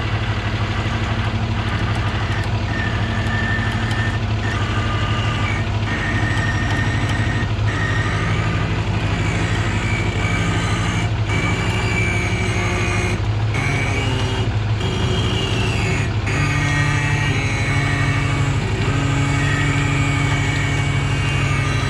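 Wrecker's diesel engine running steadily with a high whine that shifts in pitch as its winch pulls the stuck moving truck; the engine note steps up about two thirds of the way through.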